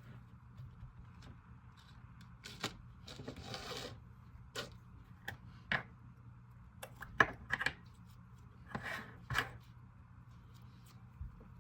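DIY clay slime, icy slime with clay and white slime, being mixed and squeezed by hand. It gives irregular sticky clicks and pops, with a few short squishes.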